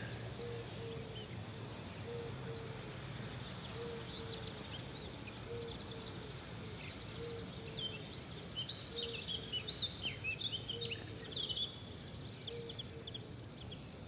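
Small birds chirping, busiest in the second half, over a steady low outdoor hum, with a short low tone repeating about once a second.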